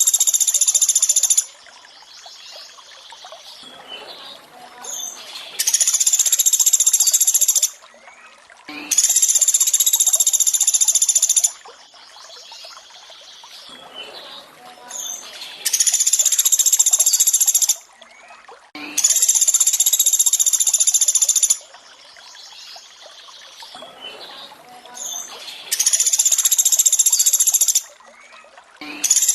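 Bird-song training recording: a loud, high-pitched rattling trill of the 'pelatuk beras' type, repeated in bursts about two seconds long, mostly in pairs, over a softer background of running water.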